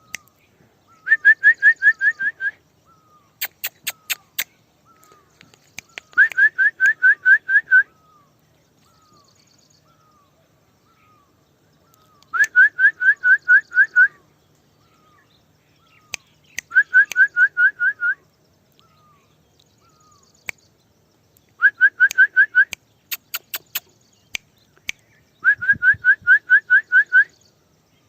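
Rapid whistled calls to summon a parrot: bursts of seven or eight quick, high rising chirps, repeated about every four to five seconds, with faint single chirps between the bursts.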